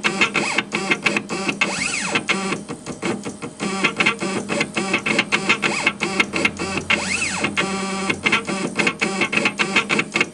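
Stepper motors of a homebuilt CNC laser engraver chattering through rapid back-and-forth engraving moves, with whines that rise and fall in pitch as the axes speed up and slow down, with music underneath.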